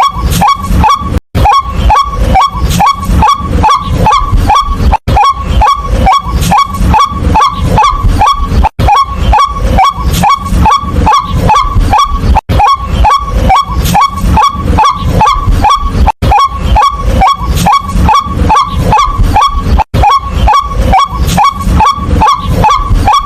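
White-breasted waterhen calling loudly, a short harsh note repeated about three times a second, broken by a brief gap about every four seconds.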